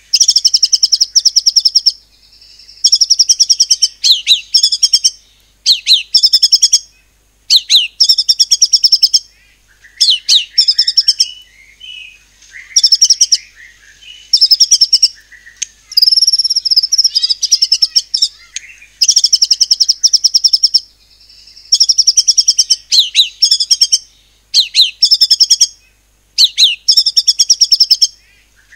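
White-rumped shama (murai batu) singing loudly in about a dozen bursts of one to two seconds, each a fast stutter of repeated high notes, with short pauses between them. This is the rapid-fire 'nembak' delivery, built on imitations of cungkok and cililin calls.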